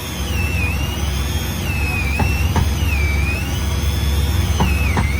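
Boat engine running with a steady low rumble. Over it, a high whine rises and falls about every second and a half, with a few light knocks in the second half.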